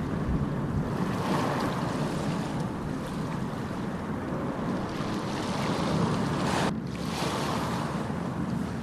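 Ocean surf: waves washing and breaking in a continuous rushing noise that swells and ebbs, with a brief break in the hiss about three-quarters of the way through.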